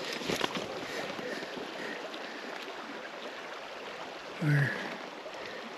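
River water flowing steadily, with a few sharp handling clicks near the start and a short murmur from a man's voice about four and a half seconds in.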